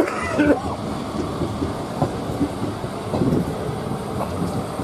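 Passenger train running on the rails, heard from aboard: a steady rumble with irregular clicks and knocks from the wheels and coaches. A brief higher-pitched squeal or voice-like sound comes right at the start.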